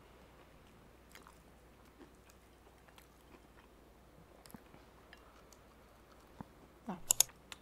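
Faint chewing and small mouth clicks of a person eating rice and fried food by hand, with a short louder burst of biting sounds near the end.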